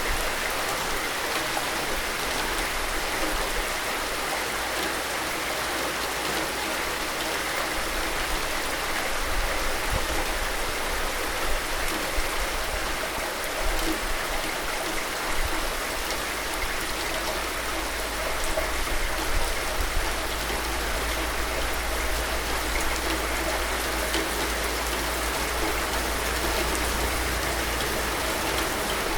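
Steady rain, a dense even hiss of falling drops with a low rumble underneath.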